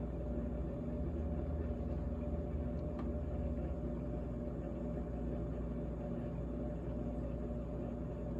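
GE GTH18XCTZRBB top-freezer refrigerator running, its compressor giving a steady hum with a faint tick about three seconds in.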